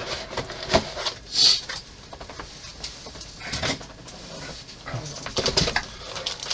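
Cardboard model-kit box and plastic parts being handled: irregular rustling with scattered clicks and light knocks.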